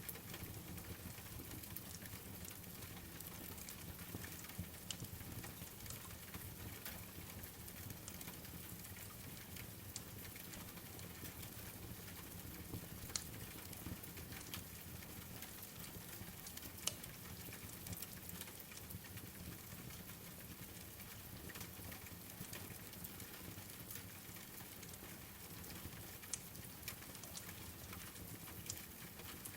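Steady rain with a wood fire crackling, scattered sharp pops over the even patter, two louder pops about halfway through.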